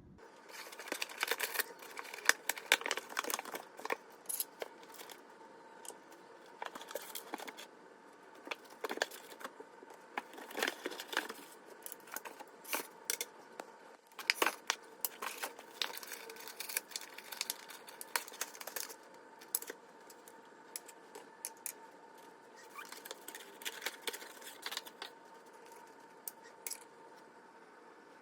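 Objects being handled: irregular sharp clicks, taps and short rustles, clustered in busy stretches near the start, around the middle and near the end.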